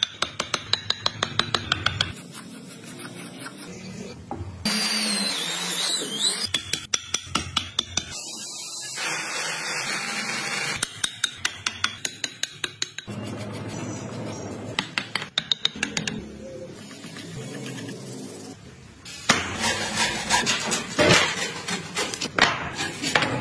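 Wood carving work in short cut-together segments: runs of rapid sharp taps alternating with stretches of steady rasping noise from hand tools working wood.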